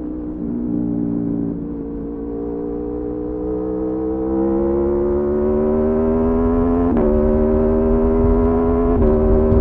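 Aprilia Tuono V4's V4 engine heard onboard, pulling hard with its pitch rising steadily under acceleration. It shifts up twice near the end, each time with a sharp click and a small drop in pitch, while wind rumble builds with speed.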